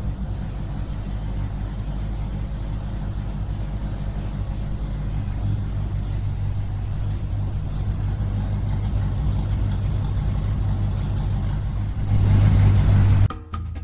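A small engine running steadily with a rapid low pulse, growing louder for about the last second and a half and then cutting off suddenly.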